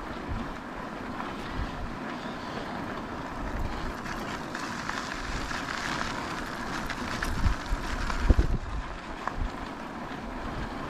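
Wind buffeting the microphone of a GoPro while riding an e-bike, over steady rolling noise, with a sharper knock a little over eight seconds in.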